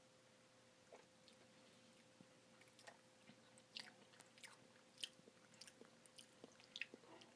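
Quiet wet mouth sounds of a person chewing a mouthful of soft-serve ice cream with brownie pieces: scattered small clicks and smacks, sparse at first and busier from about two and a half seconds in.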